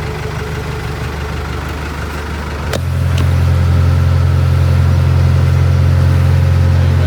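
A tour boat's engine running steadily at low speed, then, after a sharp click a little under three seconds in, opening up to a louder, steady higher-power drone as the boat gets under way again.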